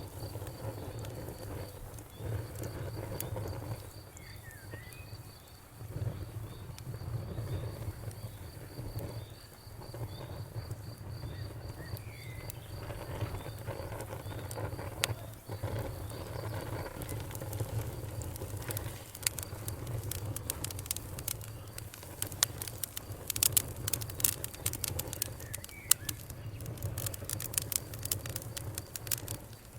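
Fireplace fire crackling: a steady low rumble of burning with scattered sharp pops and snaps that grow denser and louder in the second half.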